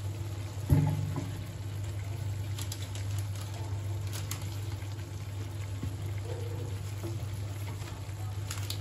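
Chicken and spices sizzling gently in oil in a kadai, with faint crackles over a steady low hum. A single knock sounds about a second in.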